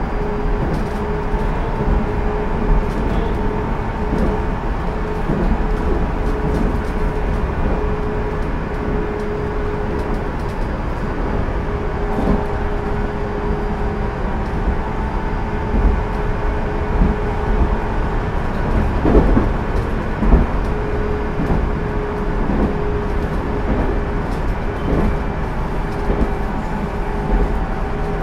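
JR Central 373 series electric train (motor car KuMoHa 373-13) running at speed, heard on board: a steady rumble of wheels on rail with a held whining tone. The tone drops out for several seconds in the middle and returns. Occasional knocks come from the track.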